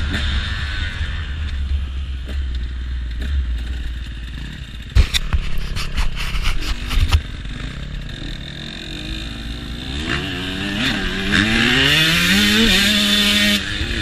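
KTM dirt bike engine running at low revs, with a cluster of sharp knocks and clatter about five to seven seconds in, then revving up with a steadily rising pitch over the last few seconds.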